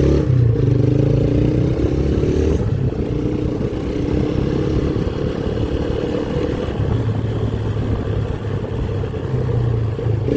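Motorcycle engine running under way, heard with rough wind noise on the microphone; the engine's steady note gives way to the wind for a few seconds in the middle, then returns.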